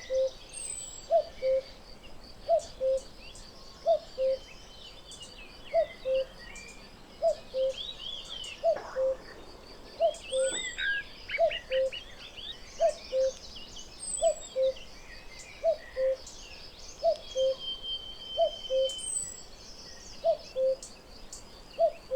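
Cuckoo calling its two-note "cuck-oo", a higher note then a lower one, repeating steadily about every one and a half seconds, over a background of smaller birds chirping and trilling.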